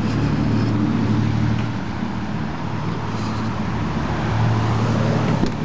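A motor vehicle engine running steadily at idle.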